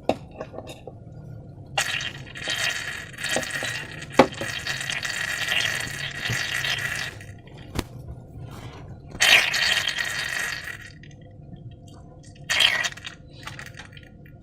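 Wet squishing and pouring of slime worked in transparent balloons, in three stretches of a few seconds each, the longest about five seconds, with a few sharp clicks between them.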